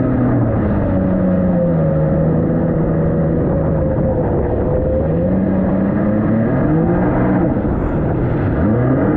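Jet ski engine running and being given throttle. Its pitch falls about a second in, holds low for a few seconds, then rises and dips again twice toward the end.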